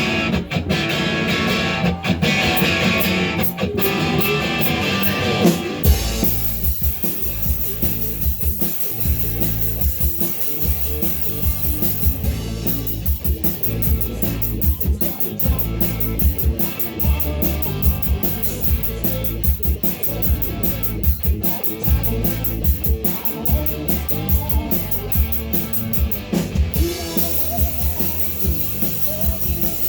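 Live rock band playing the opening of a fast song: guitar alone at first, then drums and bass come in about six seconds in and the full band plays on.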